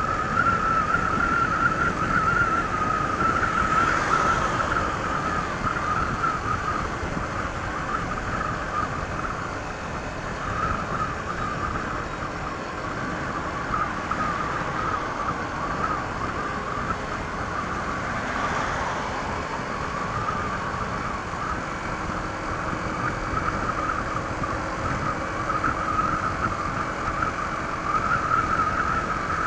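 Honda ADV 160 scooter's single-cylinder engine running at a steady cruise through its stock exhaust, with a steady high whine over rushing wind and road noise. Two short swells of rushing noise come about four seconds in and past the middle.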